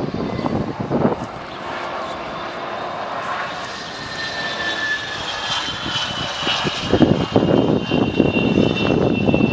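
Cessna Citation Longitude business jet arriving: the turbofan engines' whine, in several thin tones that slide slowly down in pitch over a steady rushing noise.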